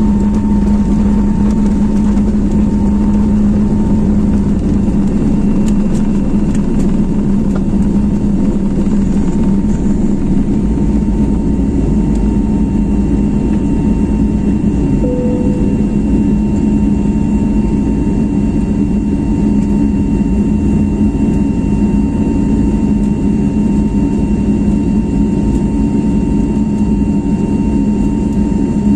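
Airbus A321neo's Pratt & Whitney PW1100G geared turbofan engines running steadily: a constant loud drone with a couple of steady whining tones above it.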